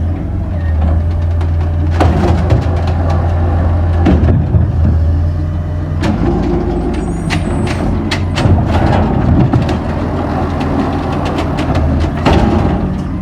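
Amrep-bodied garbage truck idling with a steady low engine drone, with repeated knocks and clatter and a brief high squeal about seven seconds in.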